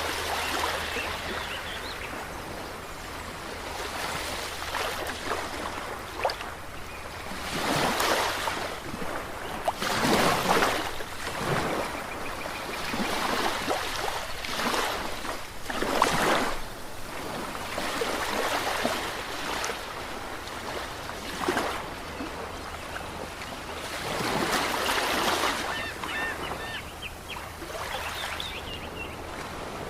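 Ocean waves breaking and washing ashore. The surf surges and recedes every few seconds, with the biggest swells about a third and halfway through.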